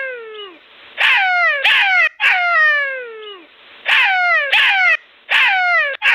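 Jackal calling: a series of short yelping cries, each sliding down in pitch, coming in clusters of two or three with brief pauses between.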